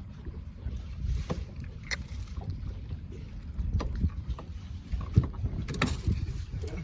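Steady low rumble on a boat at sea, with wind on the microphone, broken by scattered short knocks and clicks.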